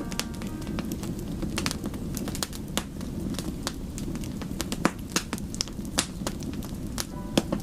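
Wood fire burning, with irregular sharp crackles and pops over a steady low rumble of flame.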